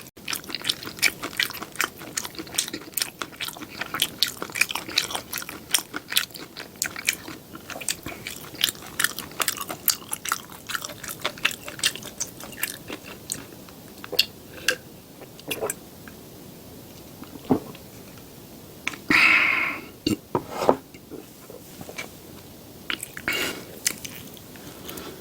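Close-miked chewing and crunching of crispy seafood pancake: dense, rapid crunches for the first half, then slower and sparser chewing, with one brief louder noisy sound about three quarters of the way through.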